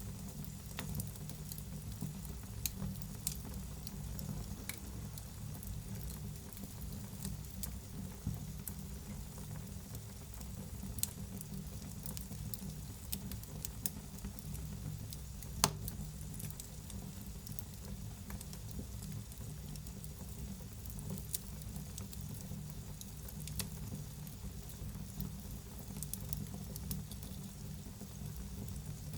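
Wood fire burning in a fireplace with a steady low rumble and irregular sharp crackles and pops, a louder pop about halfway through.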